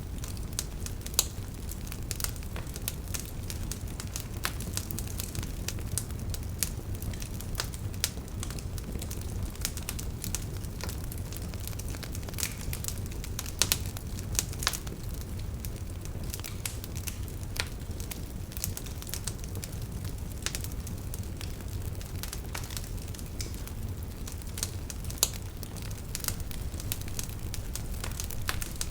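Wood fire burning in a fireplace: a steady low rumble of flame with irregular crackles and occasional sharper pops.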